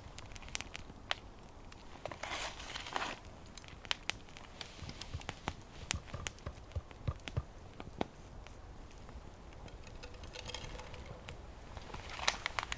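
Wood fire crackling with scattered sharp pops and ticks, with brief rustling about two seconds in and again near the end.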